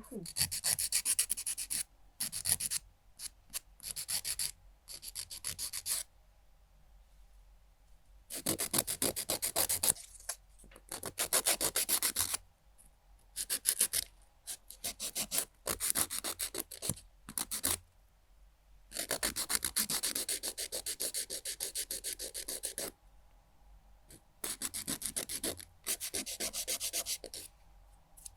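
Nail file rasping rapidly back and forth across a fingernail, in about a dozen bursts of quick strokes, each up to a few seconds long, with short pauses between them.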